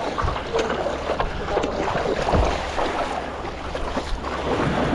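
Sea water sloshing and splashing around a stand-up paddleboard on choppy water, with wind buffeting the microphone.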